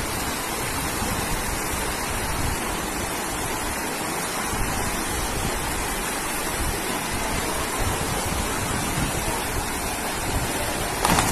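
Steady rushing of fast-flowing floodwater, with wind buffeting the microphone and a brief louder sound near the end.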